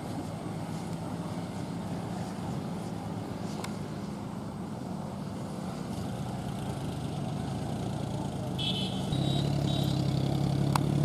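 Tractor diesel engine running steadily, growing louder about nine seconds in.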